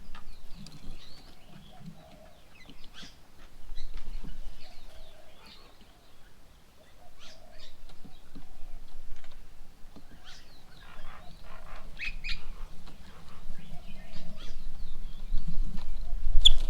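Birds calling and chirping at a bird table: a scatter of short, high chirps and calls from several birds, irregular and overlapping.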